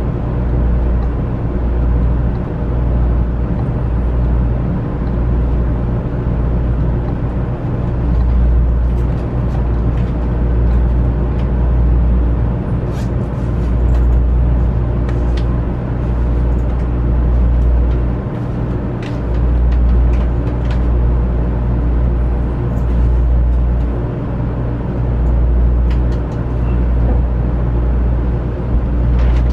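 Inside a JR West 500 series Shinkansen car running at steady speed: a deep rumble that swells and eases, under a steady hum. A few light clicks are scattered through it.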